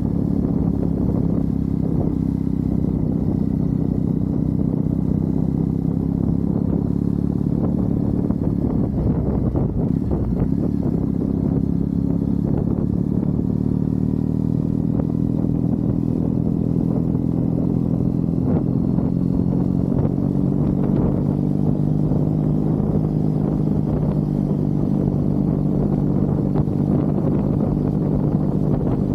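Triumph Bonneville's parallel-twin engine running at a steady cruise, with small changes in engine pitch about a third of the way through and again past the middle.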